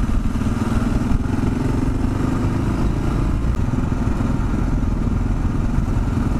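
Kawasaki KLR 650's single-cylinder engine running steadily while the bike is ridden along.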